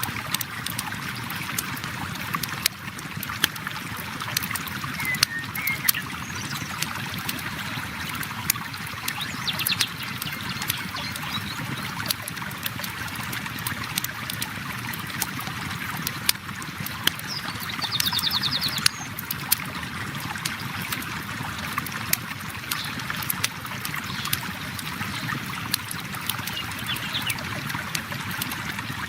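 River water flowing steadily with a campfire crackling, sharp pops scattered throughout.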